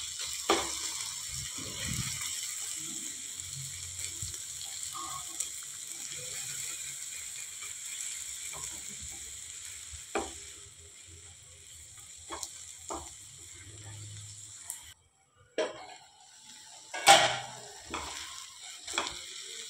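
Sliced onions and tomatoes sizzling in mustard oil in a nonstick frying pan over a low flame, stirred with a silicone spatula that scrapes and taps against the pan. The sizzle drops off about halfway, and the sharpest tap comes a few seconds before the end.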